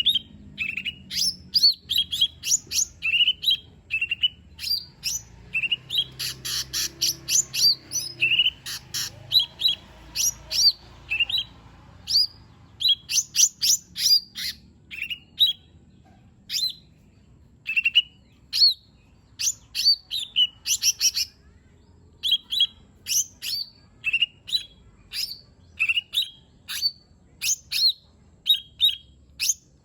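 Cucak ijo mini (lesser green leafbird) singing: a fast, unbroken string of short, sharp whistled notes and chirps, breaking twice into rapid stuttering runs.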